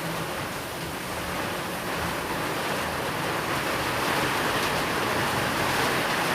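Steady rain falling, a dense even hiss that swells slightly about halfway through.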